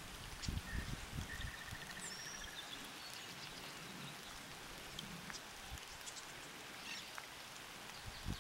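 Light rain falling on a pond and wet grass: a soft, steady hiss with scattered small drop ticks. A brief high trill comes about a second in, and a few low bumps hit the microphone early on.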